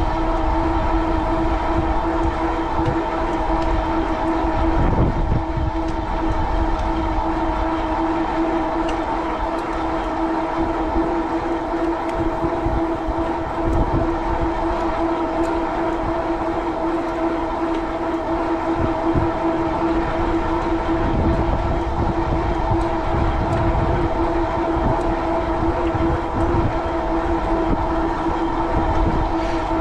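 Steady whine from an e-bike's 750-watt Bafang rear hub motor and fat tyres at a constant cruising speed, over a low rumble of wind buffeting the microphone.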